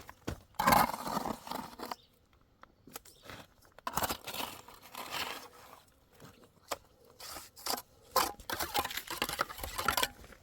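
Irregular crunching, scraping and rustling, with sharp clicks and short pauses between them.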